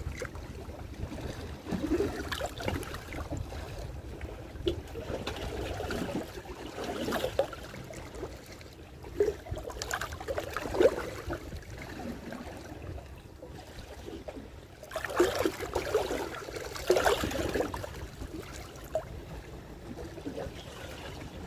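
Seawater lapping and splashing in irregular surges over a steady low rumble.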